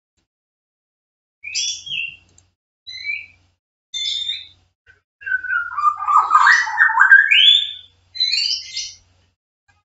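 A bird chirping in a series of short, high calls with gaps between them, and a louder, lower run of warbling calls from about five to eight seconds in.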